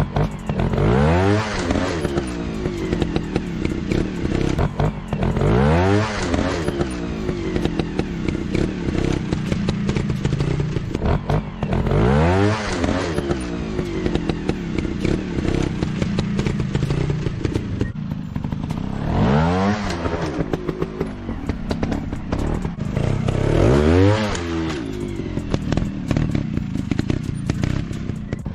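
Motorcycle engine revving up and back down in five swells, about one every five to six seconds, over a steady running note.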